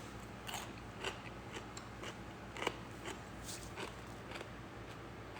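Quiet crunches and chewing from biting into a Grillo's hot pickle spear: a few scattered crisp snaps, the sharpest about two and a half seconds in.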